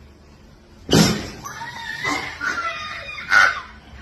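A sudden knock about a second in, then high, wavering animal cries with a second sharp burst near the end.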